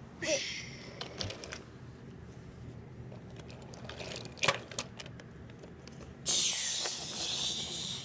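Toy train play: plastic pieces clicking and knocking a few times, the sharpest knock about four and a half seconds in, then a hissing rush that starts about six seconds in.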